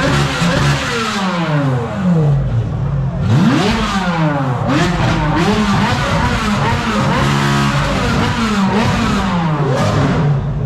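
Car engines being revved hard, several at once. The revs climb sharply and fall away again and again, overlapping throughout.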